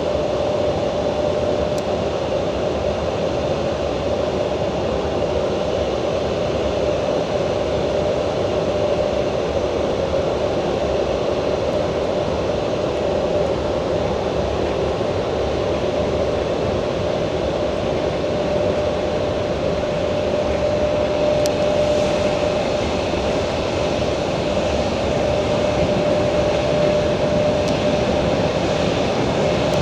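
Long-distance passenger train running on jointed track, heard from inside a carriage: a steady rolling rumble with a steady hum tone and a few faint clicks.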